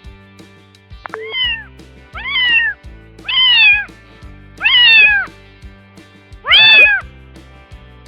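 Domestic cat meowing five times, each meow rising and then falling in pitch, about a second apart, with the last one the loudest. Background music plays underneath.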